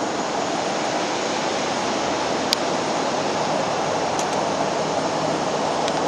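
Steady rushing roar of aircraft turbine noise on an airport apron, with a few faint clicks.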